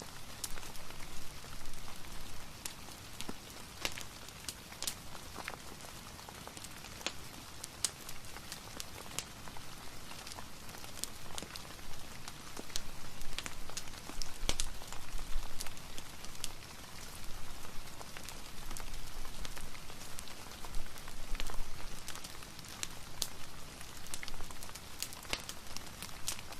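Steady rain hiss layered with a wood fire's crackle, with irregular sharp pops and ticks scattered throughout.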